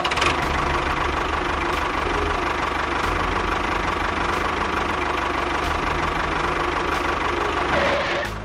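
A small motor running steadily with a rapid low pulsing, cutting off near the end.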